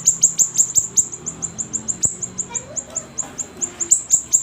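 Siri-siri songbird calling in a fast, unbroken run of short, high, down-slurred notes, about six a second, with a single click about two seconds in.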